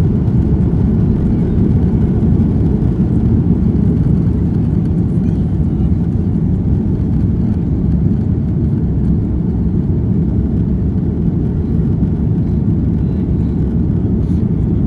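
Airliner cabin noise: a loud, steady low rumble of the jet engines and airflow heard from inside the passenger cabin.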